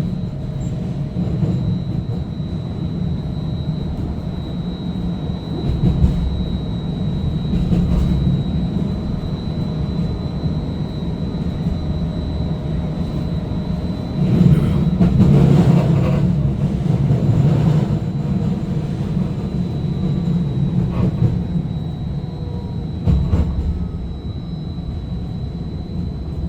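Cabin noise of a First Hill electric streetcar running between stops: a steady low rumble of wheels on rail, with a thin constant high whine. A few short knocks come through, and the rumble grows louder for a few seconds past the middle.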